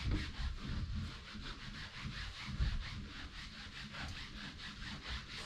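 A damp cloth being scrubbed back and forth over a chair to lift the dust, with quick, even strokes and occasional low bumps.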